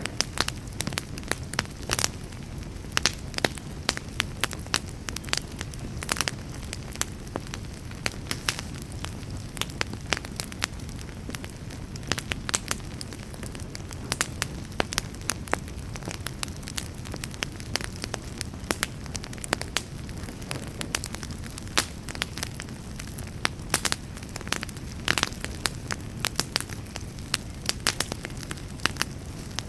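Wood campfire crackling, with irregular sharp pops and snaps several times a second over a steady low rush.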